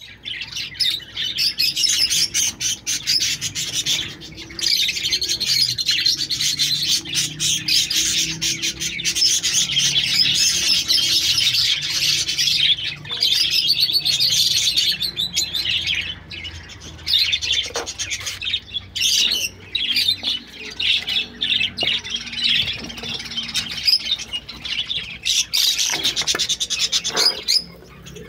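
A group of budgerigars chattering and chirping almost without pause, with a few short lulls.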